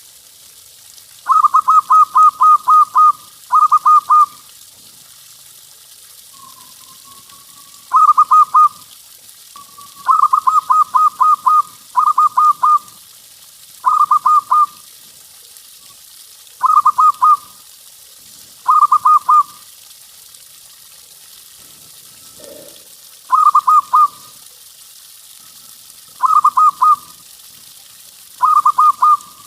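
Zebra dove (perkutut) cooing: phrases of quick, pulsing coos repeated every two seconds or so, a few of them longer runs.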